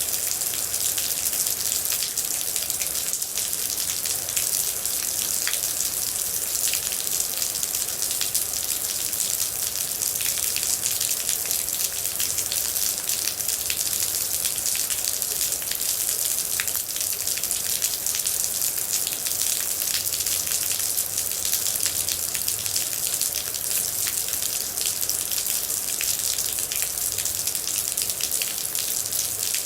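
Steady rain: an even hiss of falling rain with a dense patter of individual drops ticking on a surface.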